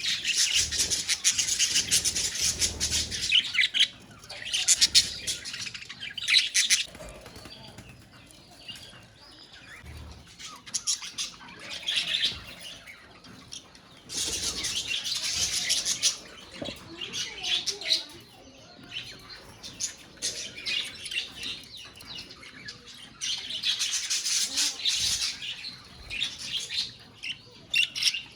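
A colony of budgerigars chattering and chirping together, in loud spells of dense warbling a few seconds long with quieter scattered chirps between.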